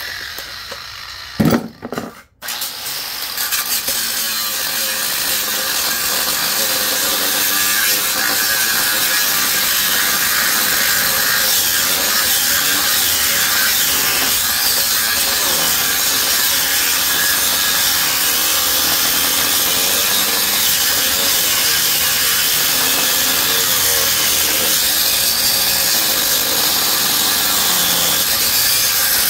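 Reciprocating saw (Sawzall) cutting through the metal of a large transformer. It stops briefly and restarts about two seconds in, then runs steadily through the cut.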